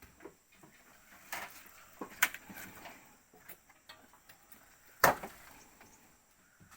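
A few scattered knocks and clatters, the loudest a single sharp strike about five seconds in.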